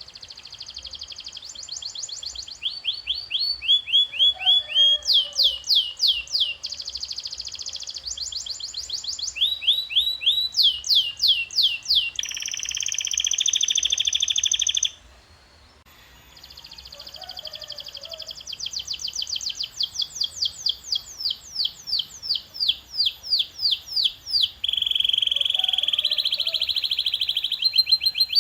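Domestic canary singing: phrases of rapidly repeated high notes, each sweeping down in pitch, one phrase changing to a fast buzzy trill, with a short break about halfway through before the song resumes.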